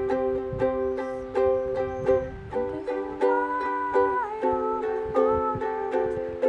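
A strummed string instrument playing a song's chord accompaniment in a steady rhythm, about two to three strums a second, with a higher held note sounding briefly around the middle.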